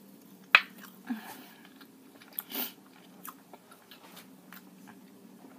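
Close mouth sounds of a person chewing a bite of tamale: soft wet chewing and smacking noises, with one sharp click about half a second in as the fork leaves the mouth.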